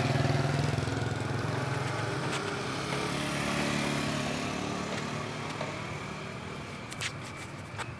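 A vehicle engine running with a steady low hum. It is loudest at the start and slowly fades, and there are a few sharp clicks near the end.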